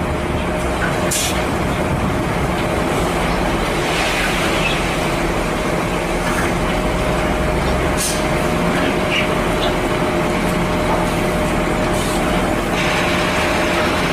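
Hino cement mixer truck's diesel engine running steadily, with a steady whine over it and a few short clanks.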